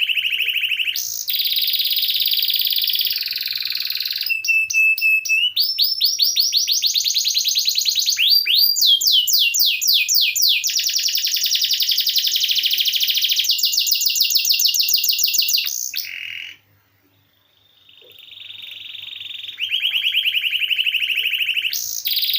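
Domestic canary singing long rolling trills of rapidly repeated notes, switching between phrases, with a brief pause about two-thirds of the way through.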